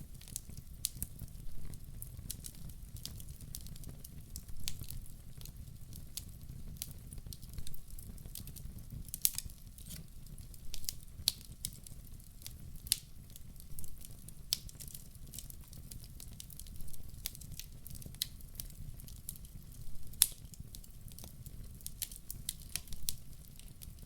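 Wood fire burning in a fireplace, crackling with irregular sharp pops over a steady low rumble of the flames, with a couple of louder pops.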